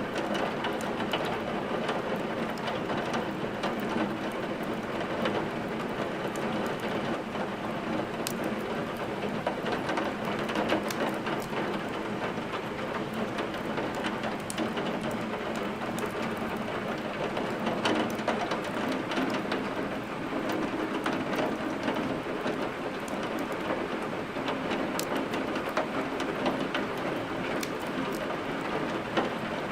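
Steady heavy rain, with a wood fire crackling in sharp, scattered pops now and then.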